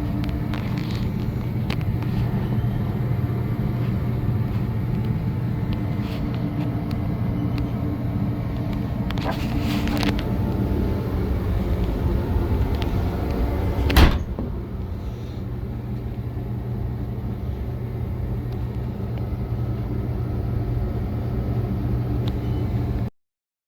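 Carbureted engine of a 1977 Chevrolet El Camino idling steadily. A single sharp thump about fourteen seconds in, after which the engine sound is slightly quieter, and the sound cuts off suddenly near the end.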